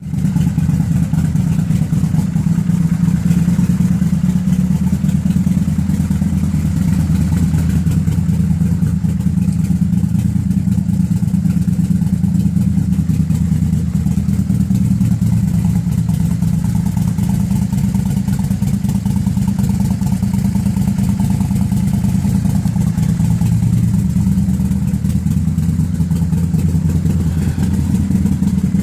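Kawasaki Vulcan 800's V-twin engine running through straight pipes, a steady low exhaust note with no big revs.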